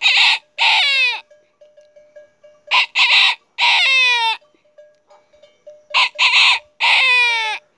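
A boy imitating a rooster's crow with his voice, three times, each crow a few short notes ending in a long note that slides down in pitch.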